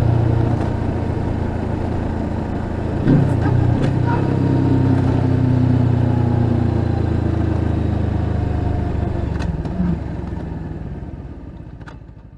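Suzuki GSX250R parallel-twin engine running through an aftermarket slip-on muffler, a steady deep note with a brief change in pitch about three seconds in. It fades away over the last few seconds.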